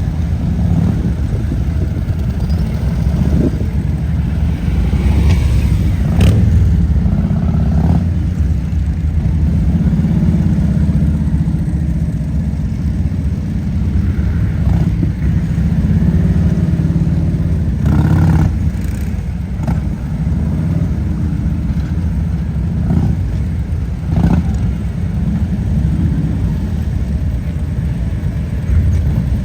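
Motorcycle engines running loud and low, ridden slowly with the throttle rising and falling. A few brief sharp knocks or clicks cut through.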